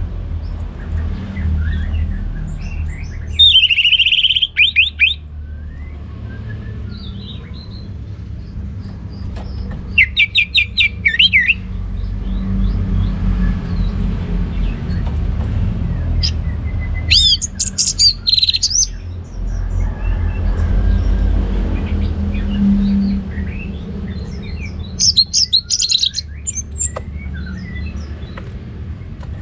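Orange-headed thrush singing its loud full song ('ngeplong'): a phrase of rapid, quickly changing whistled notes about every seven seconds, four phrases in all, over a steady low rumble.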